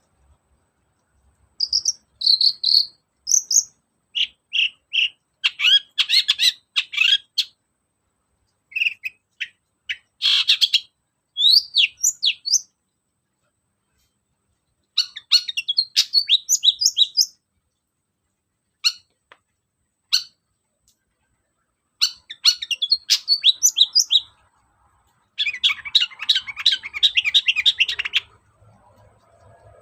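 Long-tailed shrike (cendet) singing in bouts of quick, sharp, high chattering notes, each bout lasting one to three seconds and separated by short silent pauses. The longest, densest run of notes comes near the end.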